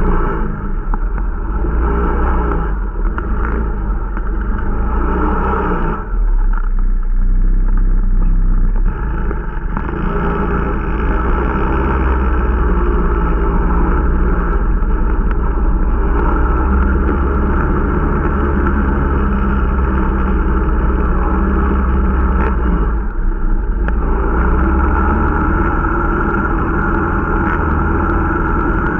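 Irbis Dingo T125 snowmobile's 125 cc single-cylinder four-stroke engine running under way, during its break-in. The throttle eases off about six seconds in and briefly again near the 23-second mark, then the engine pulls steadily.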